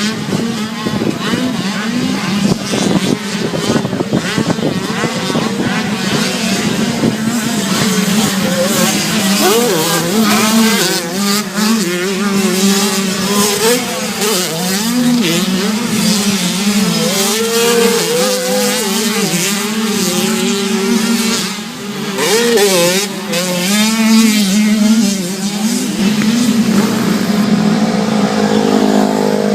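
Several racing engines running together during a race, their pitch rising and falling again and again as the drivers accelerate and lift.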